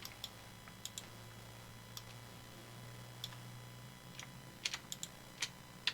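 Computer keyboard and mouse clicking: scattered single clicks, a few coming closer together near the end, over a faint steady low hum.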